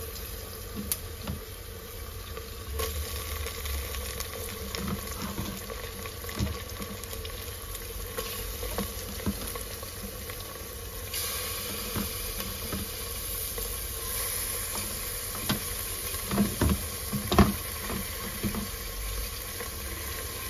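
Raw boneless chicken sizzling and frying in hot ghee and browned onions in an aluminium pressure cooker as the pieces are dropped in by hand, with scattered soft knocks as they land. The sizzle grows stronger about halfway through.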